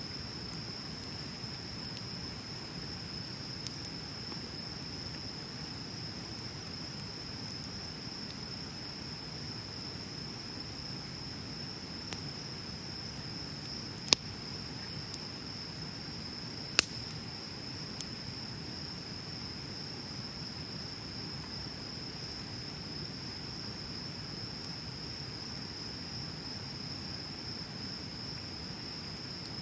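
Wood bonfire burning with a few scattered crackles and two sharp pops near the middle, over a steady high trilling of crickets.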